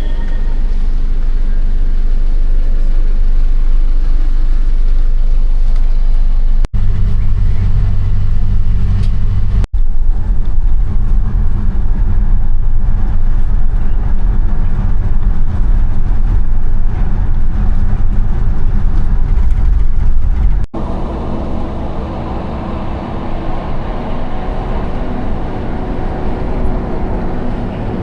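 Steady low rumble of a moving vehicle, strung together from several clips with abrupt cuts. The last cut comes about three-quarters of the way through, and after it the running noise is quieter.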